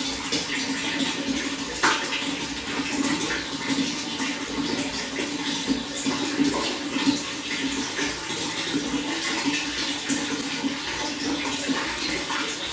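Running water flowing steadily, with many small splashes and gurgles through it.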